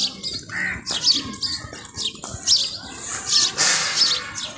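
Small birds chirping repeatedly, short high calls about twice a second, with a brief rushing noise about three and a half seconds in.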